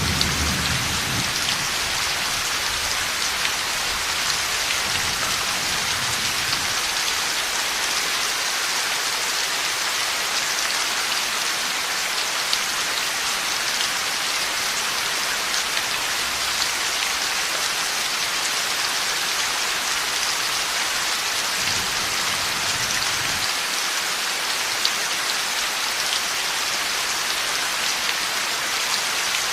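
Heavy rain falling steadily, an even hiss of drops on surfaces. A low rumble of thunder is fading away in the first second, with fainter low rumbles later on.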